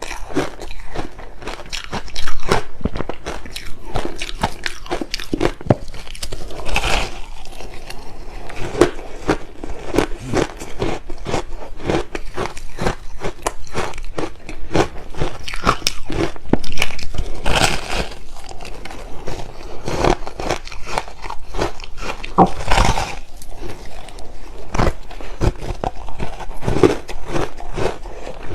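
Close-miked biting, crunching and chewing of shaved ice: a dense run of crackly crunches with a few louder bites spread through.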